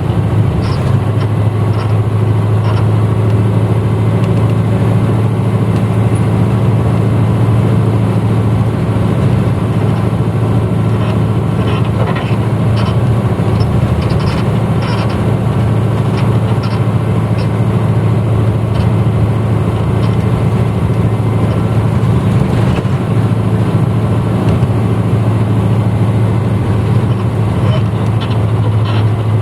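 1994 Hino Blue Ribbon U-HT2MPAA bus heard from inside the cabin while running: a steady low engine drone that holds an even pitch, with light rattles and clicks scattered through it.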